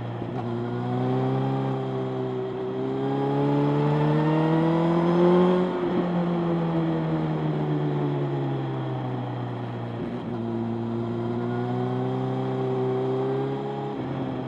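Motorcycle engine running under way. Its pitch climbs for a few seconds, then eases off and falls slowly. About ten seconds in there is a brief break, after which it steadies and rises gently again.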